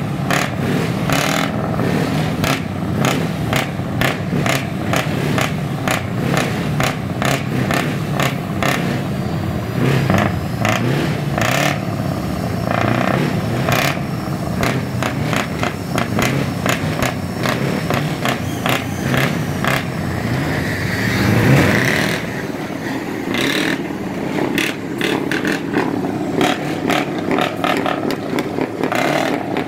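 Scania truck diesel engines running through open exhausts, a steady low engine note broken by many sharp cracks, swelling in loudness briefly about two-thirds of the way through.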